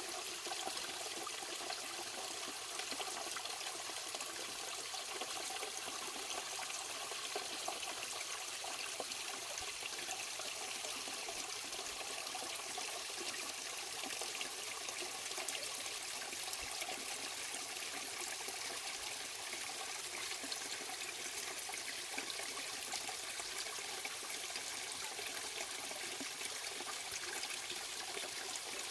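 Running water, a steady rush that does not change.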